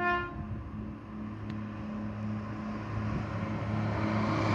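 Diesel passenger train approaching and passing under the bridge: a steady low engine hum, with the rumble of the train growing louder toward the end. A short pitched toot sounds at the very start.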